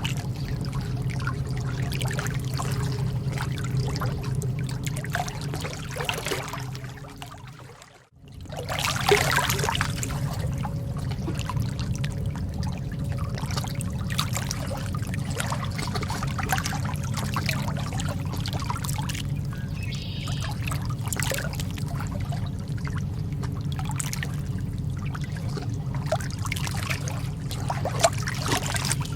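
Calm lake water trickling with many small splashes. It fades to near silence about eight seconds in, then comes straight back.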